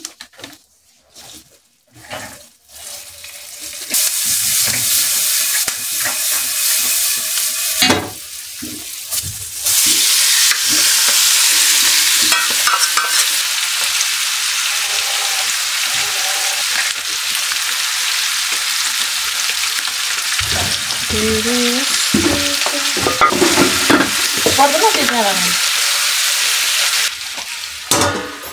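Pieces of pig offal frying in hot oil in a non-stick frying pan, stirred with a spoon. A loud, steady sizzle starts a few seconds in and grows stronger about ten seconds in. It drops off sharply near the end, when a metal plate is laid over the pan as a lid.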